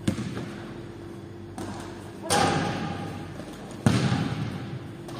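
Basketball thuds and bangs echoing in a large gym hall: a sharp knock at the start, then two loud bangs about a second and a half apart, each with a long echoing tail, as the ball strikes around the hoop while players go for the rebound.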